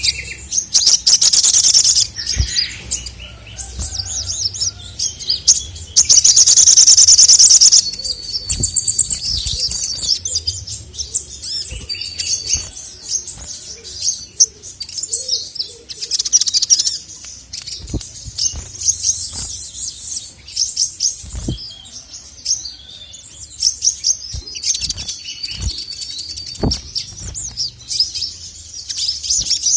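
Male sogok ontong (crimson sunbird) singing in rapid, high chirps and trills, with two loud, dense rattling runs, one starting about a second in and one starting about six seconds in, between quicker broken phrases.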